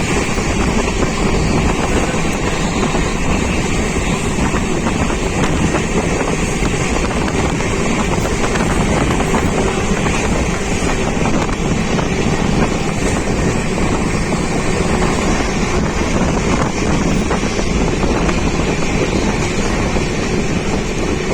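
Steady running noise of a moving passenger train, with wind buffeting the microphone.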